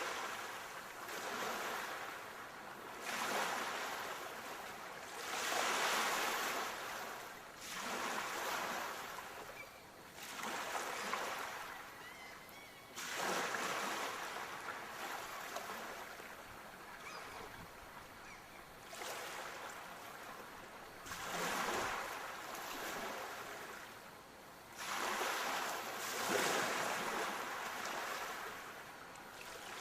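Sea waves breaking and washing up on the shore, with a new surge of surf every two to three seconds, each swelling and then fading.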